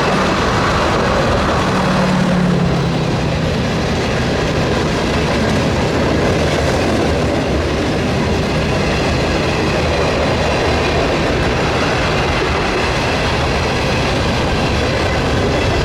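A train rolling past close by: the steady rumble of steel wheels on the rails. A low drone stands out briefly about two seconds in.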